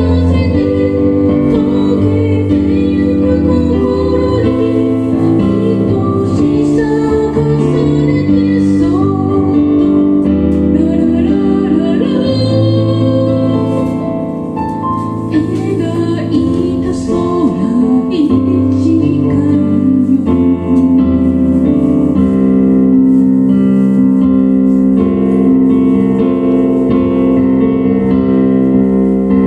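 A band rehearsing a song: keyboard chords played under a singing voice.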